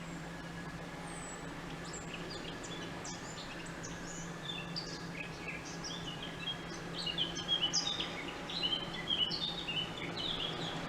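Small birds chirping, with rapid short high notes that start about two seconds in and get busier in the second half, over a steady low hum.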